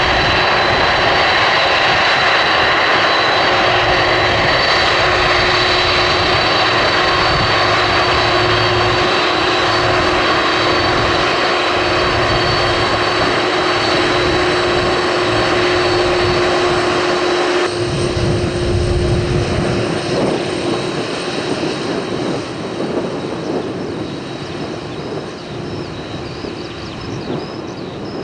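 Airliner's engines running loud, a dense roar with steady high whines. About two-thirds through, the high hiss drops off suddenly and a deeper rumble swells briefly, then the sound fades away.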